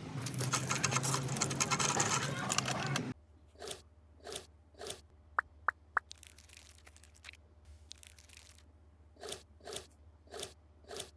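Loud crunching and scraping for about three seconds, then a run of short scraping strokes with three sharp clicking pings in the middle.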